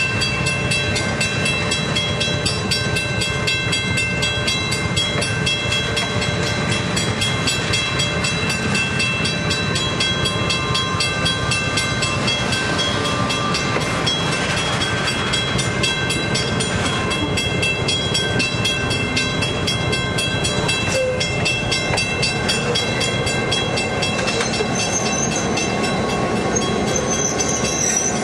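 Passenger train cars rolling slowly past close by: steady wheel-on-rail noise with clicking over the rail joints and a steady high ringing over it. Near the end the diesel locomotive comes alongside and new higher tones join in.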